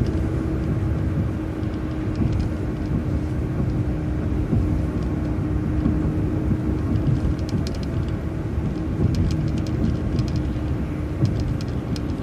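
Transit bus driving along a city street, heard from inside: a steady low engine and road rumble with a constant hum, and light rattling in short bursts during the second half.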